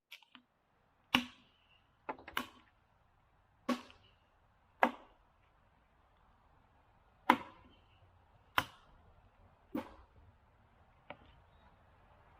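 About nine sharp knocks, one at a time at uneven intervals of one to two and a half seconds, each with a brief ring.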